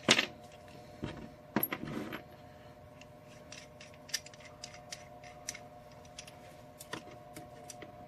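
Light metal clicks and clinks of a tubing cutter being set on copper tubing. There is a sharp knock at the start and a short clatter about two seconds in, then a string of faint ticks.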